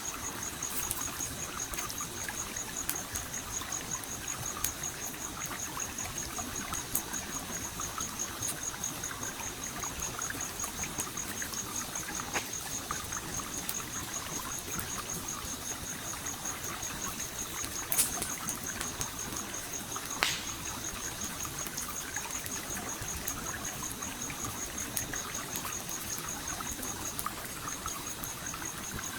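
A gently flowing stream trickles steadily under a crackling campfire's scattered pops, two of them louder about two-thirds of the way through. A fast-pulsing high insect trill runs behind, breaking off briefly near the end.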